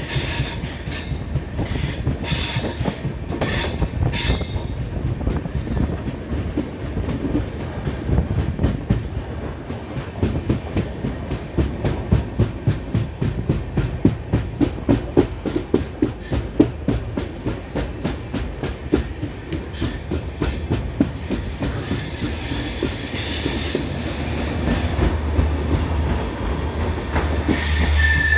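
Passenger train running at speed, its wheels clattering over the rail joints in a quick, regular clickety-clack, with a deeper rumble building near the end.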